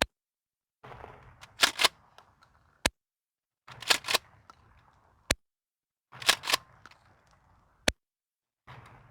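A 20-gauge shotgun fired four times, about two and a half seconds apart, the sound cutting out briefly after each shot. Between shots come two quick sharp clacks of the action being worked.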